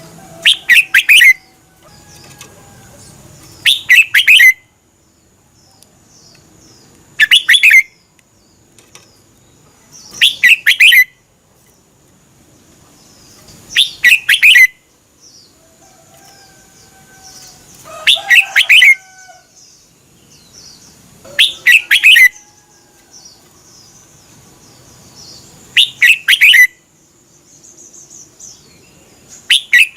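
Red-whiskered bulbul singing its short, fast warbled phrase over and over, eight times, about every three to four seconds.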